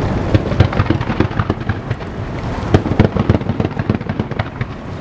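Aerial fireworks bursting over the water: a quick irregular string of booms and cracks over a low rolling rumble, the sharpest reports about half a second in and around three seconds in.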